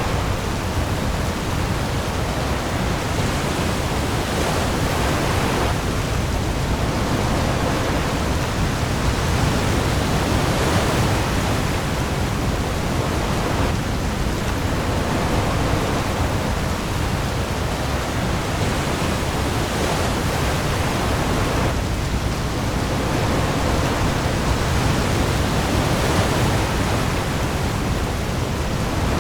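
Heavy rain pouring onto the sea with waves, a dense, even hiss over a deep low rumble that swells and eases slowly every several seconds.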